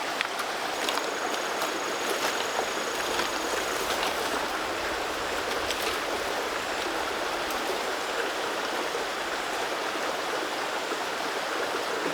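Steady rush of running water, like a stream or a strong flowing trickle, even in level throughout, with a few faint ticks.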